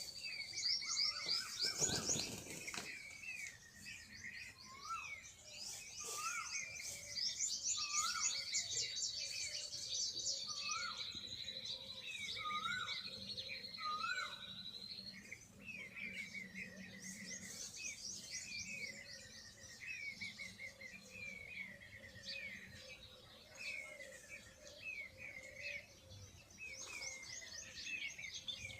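Several small birds chirping and singing at once: repeated short chirps, a short rising call repeated about once a second for a while, and high thin trills. A brief rustling thump comes about two seconds in.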